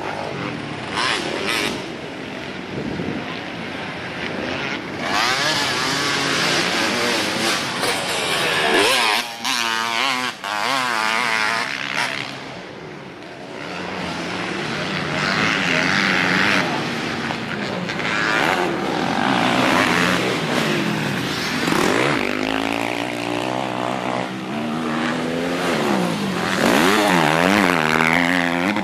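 Dirt bike engine running and revving, its pitch rising and falling again and again as the bike rides around.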